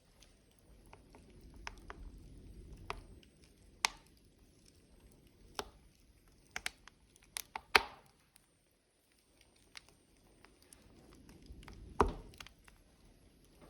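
Burning logs in a wood stove crackling, with irregular sharp pops, the loudest about eight and twelve seconds in, over a low rumble of flame that swells and fades.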